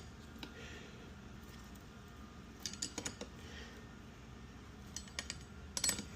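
A few faint metallic clicks and clinks of hand tools, a 16 mm socket being fitted and worked on the engine, in three short clusters about three, five and nearly six seconds in.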